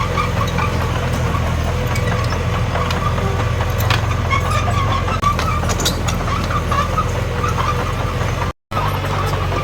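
Diesel engine of a Komatsu D21P bulldozer running steadily under work, with scattered higher squeaks and clicks over the engine hum. The sound cuts out for a moment near the end.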